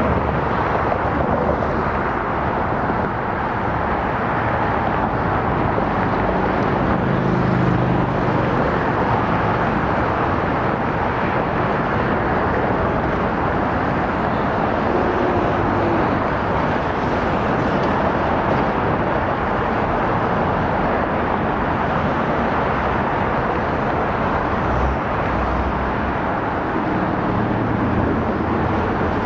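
Steady loud rushing airport ambience outdoors, with a few faint brief hums about a quarter and about halfway through.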